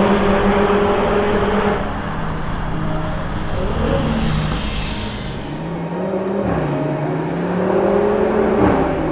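Audi TT RS's turbocharged five-cylinder engine, ABT-tuned, pulling on the road: a steady note, easing off about two seconds in, then rising from about six and a half seconds and dropping suddenly near the end, as at a gear change.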